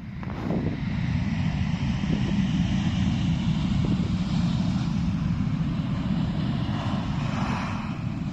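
Jet airliner passing close on its landing approach: a loud, steady engine rumble that builds within the first second and holds, with a hiss of higher engine noise above it and a brief swell near the end.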